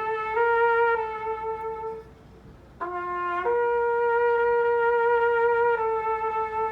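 Instrumental music: one instrument playing a slow melody of long held notes that step up and down, with a brief drop-out about two seconds in.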